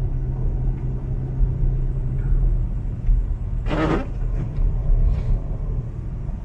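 Car driving slowly on a snowy street, heard from inside: a steady low rumble of engine and tyres. A short voice-like sound breaks in briefly about four seconds in.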